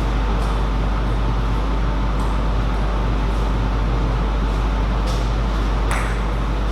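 Steady low hum with an even hiss of room noise, with a few faint sharp clicks, the clearest about five and six seconds in.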